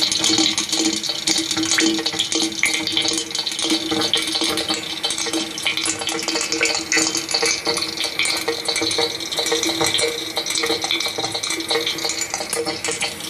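Sound picked up by a microphone down a borehole: continuous crackling, trickling noise full of small clicks over a steady low hum, which the recordist takes for underground tunnel digging.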